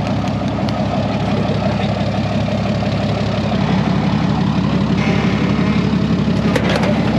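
Truck engine idling steadily, a little louder from about halfway through, with a few sharp metallic clicks near the end.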